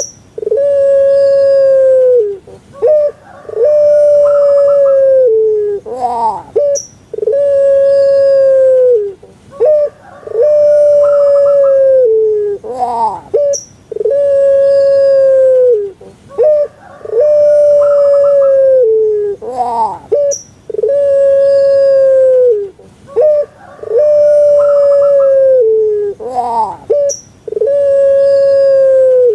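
Puter pelung, the long-voiced domestic ringneck dove, cooing over and over: each call is a few short rising notes followed by a long held low coo, repeated about every three seconds.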